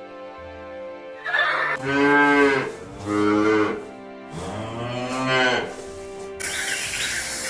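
A large farm animal calling three times in long, loud, drawn-out calls that rise and fall in pitch, over background music. Near the end it cuts to birds and insects chirping.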